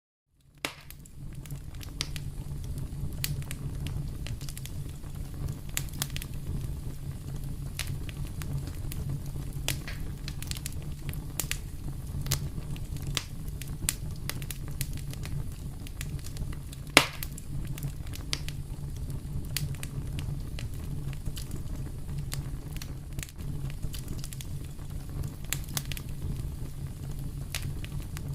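Fire crackling in a fireplace: a steady low rumble of flames with frequent sharp pops and snaps, one louder pop about halfway through.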